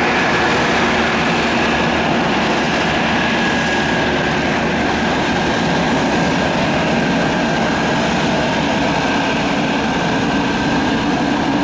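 Beechcraft 1900D twin turboprop taxiing, its Pratt & Whitney PT6A turbines and propellers running at a steady low power: an even rushing drone with a high whine held on one pitch.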